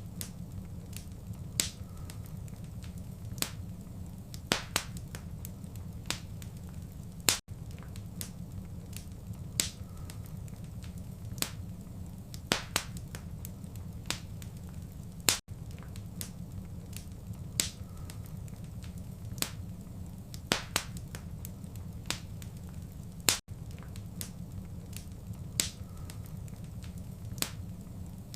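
Fireplace fire crackling: irregular sharp pops and snaps over a steady low rumble. The sound repeats as a loop about every eight seconds, with a brief dropout to silence at each seam.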